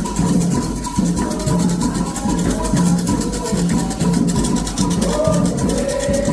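Percussion-led music: a repeating low drum pattern with a shaker rattling steadily over it.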